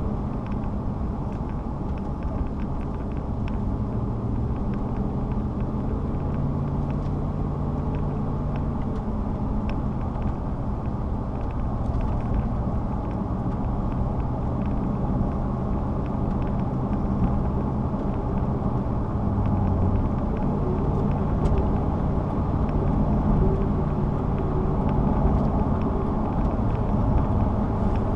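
A car driving on the road: steady engine and tyre noise, the engine note shifting slightly in pitch now and then.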